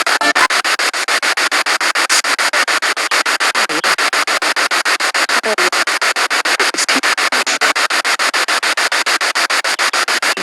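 Spirit box radio sweeping through stations: loud static hiss chopped into rapid, even pulses several times a second, with brief faint snatches of radio sound between the cuts.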